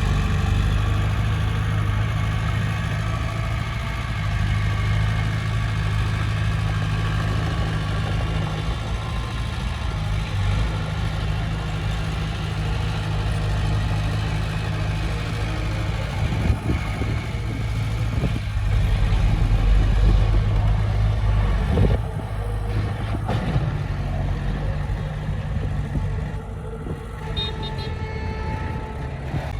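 Diesel engine of heavy earthmoving equipment running steadily, with a few clanks in the middle and a change in engine note about two-thirds of the way through.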